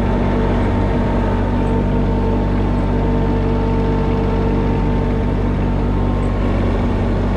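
Compact tractor's diesel engine running steadily at constant throttle while pulling a drag of felled trees.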